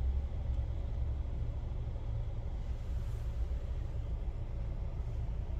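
Car idling, heard from inside the closed cabin: a steady low rumble.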